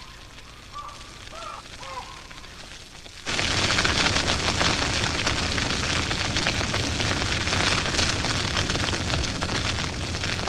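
Savanna grass fire burning: a loud, dense crackling and rushing that starts suddenly about three seconds in, after a few faint chirps.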